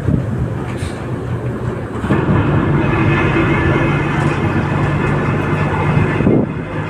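A vehicle running with continuous travel rumble, turning into a steady engine drone with several held tones from about two seconds in.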